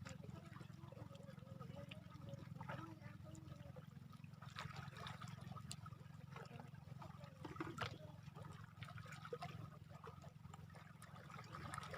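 Faint water trickling and lapping, with scattered small splashes and clicks.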